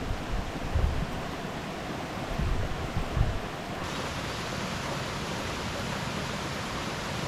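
Steady rushing noise of heavy monsoon rain and a swollen, overflowing valley stream, with low rumbles of wind on the microphone in the first half.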